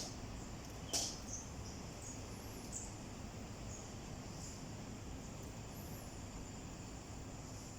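Blue-crowned hanging parrots giving short, high, thin squeaky calls: two sharp ones near the start and about a second in, then fainter scattered notes, over a steady high insect whine.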